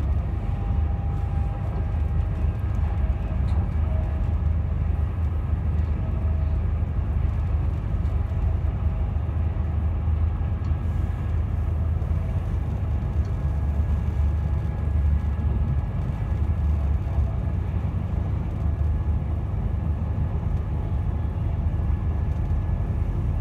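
Moving passenger train heard from inside the carriage: a steady low rumble of wheels on track, with faint steady whining tones above it.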